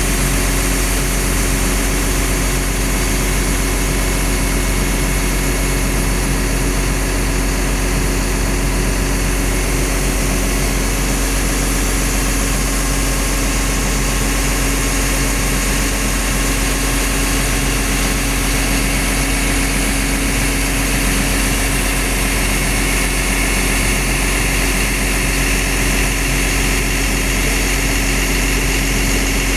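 Cummins diesel engine of a Liugong CLG922E crawler excavator running at a steady speed: a constant drone that never changes in pitch or loudness.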